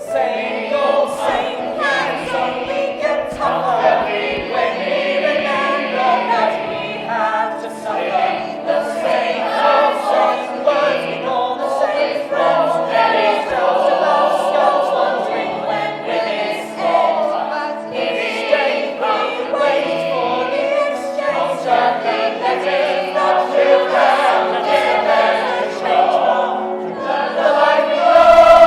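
Choral music: voices singing wordless, sustained and moving lines over a held low note.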